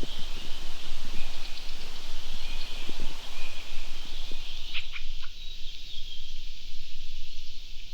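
Small birds chirping and calling in short, repeated notes, with a few soft low knocks in the first half and three sharp clicks about five seconds in.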